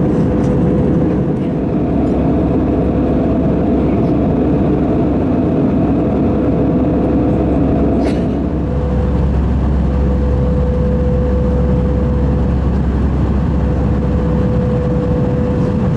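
Airbus A320 cabin noise in cruise: a loud, steady rumble of engines and airflow with a steady hum running through it. About halfway through there is a short click, and the sound turns a little deeper for the rest of the time.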